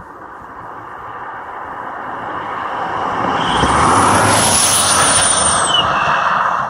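A 4-cylinder Mazda 626 with a turbo whistle clamped in its exhaust driving past. The engine and road noise build up, peak and die away, with a high thin whistle that drops slightly in pitch as the car passes.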